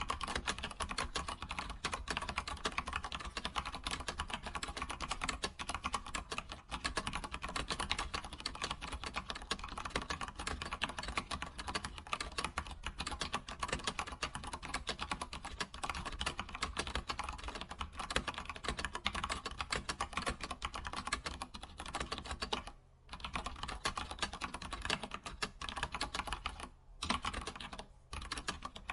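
Computer keyboard typed on quickly and steadily, a dense run of key clicks, with two short pauses near the end.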